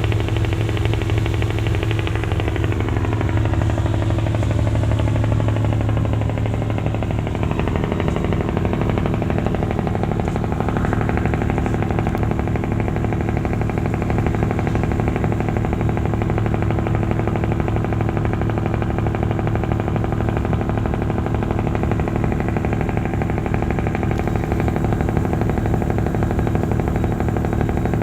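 Large diesel engine running steadily, a deep hum with a rapid, even pulsing that does not change in level.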